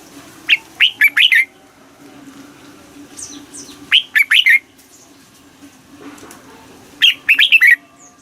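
Red-whiskered bulbul singing: three short phrases of quick whistled notes, a few seconds apart, over a faint steady low hum.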